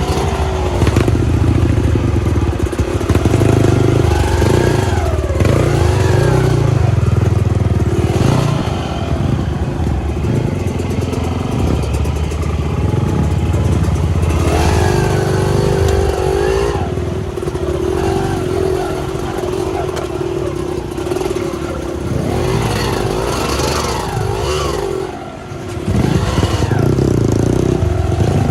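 Off-road trail motorcycle engine running and revving, its pitch rising and falling with the throttle, with some clatter.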